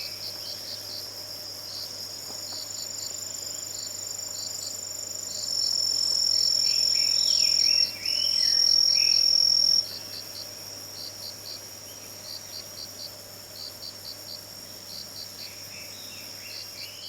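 A chorus of autumn insects: steady high trills and rows of short pulsed chirps, with one insect's loud, continuous trill starting about five seconds in, breaking off briefly and stopping about four seconds later. Faint warbling phrases of a Chinese hwamei (Garrulax canorus) come in near the start, in the middle and near the end.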